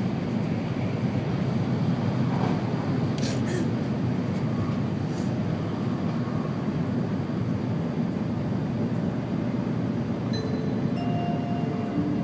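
Steady rumble of an N700 series Shinkansen train running, heard from inside the passenger cabin.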